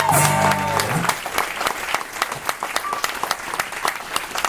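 A live band's final chord rings out and stops about a second in, then the audience applauds.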